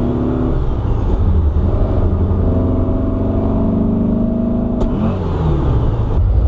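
Air-cooled 1900 cc VW flat-four on dual 40 IDF carburettors pulling in gear, its note rising steadily; about five seconds in a click is heard and the engine note drops quickly. The driver concludes that third gear pops out under a pull.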